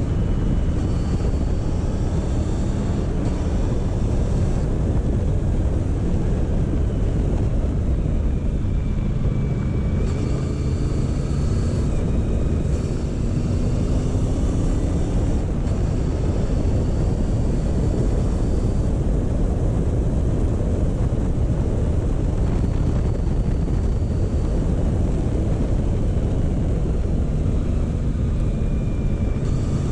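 Motorcycle engine running at a slow pace, with wind rushing over the microphone. The engine note rises a few times, around a third of the way in and again near the end, as the bike picks up speed.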